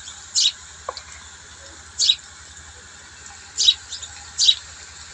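Pakoras frying in a pan of hot ghee with a steady faint sizzle. Four short, high chirps stand out above it, spread through the few seconds.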